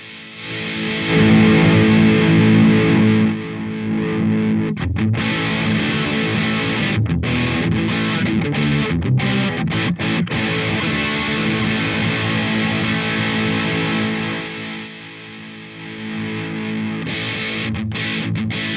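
Electric guitar with heavy distortion played through a Peace Hill FX TR tube preamp, with a Boss DS-1 distortion pedal in front of it. The playing is sustained chords and riffs, with a few short breaks between phrases and a quieter passage near the end.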